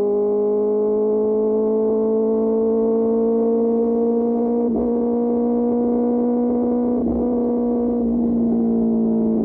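QJ Motor SRK600's inline-four engine on the move through an SC-Project exhaust: a steady, loud droning note whose pitch creeps slowly up, with two brief blips in the middle.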